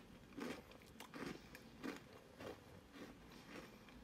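Quiet close-up chewing of a crunchy gingerbread cookie, a crunch roughly every two-thirds of a second.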